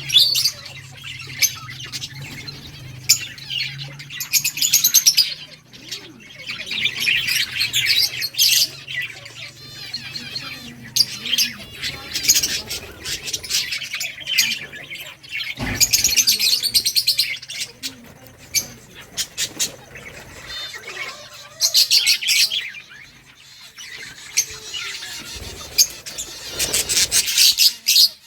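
A group of budgerigars chattering and chirping, with bouts of rapid warbling calls coming and going in waves and a few sharper squawks.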